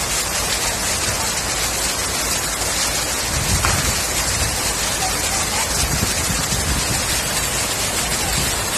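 Steady hiss of heavy rain and rushing floodwater, with a few low rumbles partway through.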